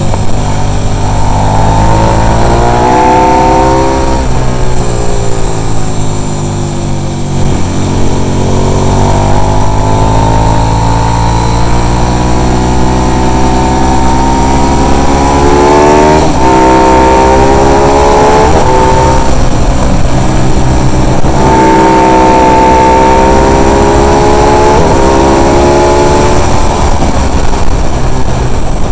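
Racing motorcycle engine heard from on board at racing speed: the pitch climbs through the gears and falls sharply at each shift, several times over, over a steady rush of wind noise.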